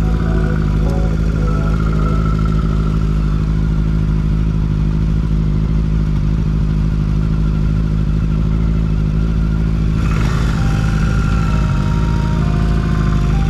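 Motorcycle engine running at a steady pace while riding, with a brief rush of noise about ten seconds in.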